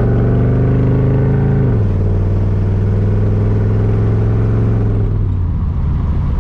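Chevrolet 5.0 V8 running through a freshly fitted dual-muffler exhaust while driving under light throttle. The engine note rises slightly, steps down in pitch about two seconds in, holds steady, then drops lower and rougher near the end.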